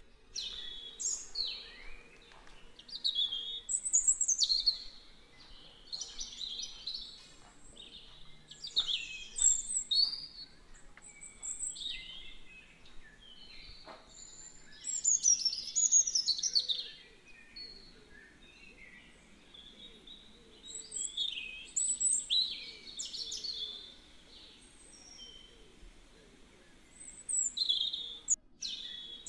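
Birds chirping and calling: clusters of high, varied chirps and sweeping whistles come every few seconds.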